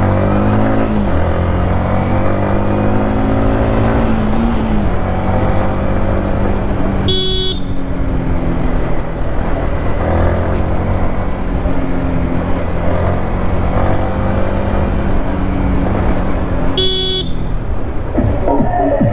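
A modified Yamaha MT-15's 155 cc single-cylinder four-stroke engine running at highway speed. Its pitch rises and falls with the throttle in the first few seconds, then holds steady over rushing wind and road noise. A horn gives two short toots, the first about seven seconds in and the second near the end.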